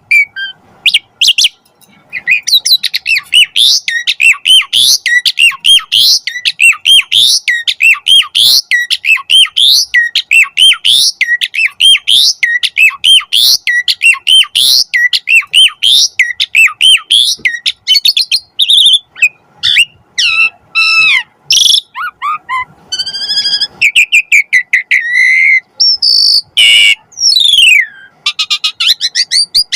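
Asian pied starling singing loudly: a fast run of repeated chirping notes, two or three a second, then a varied stretch of whistles, trills and harsh notes in the last third.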